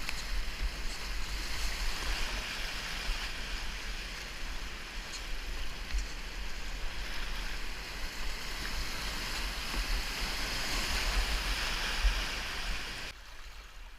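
Rushing whitewater of a river rapid, a steady hiss, with a low, gusting rumble on the microphone. It drops away abruptly near the end.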